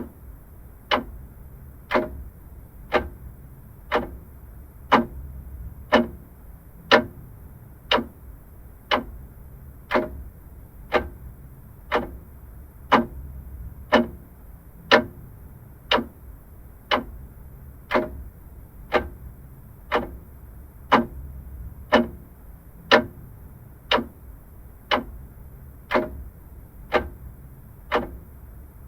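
Vintage clock ticking steadily, one sharp tick each second.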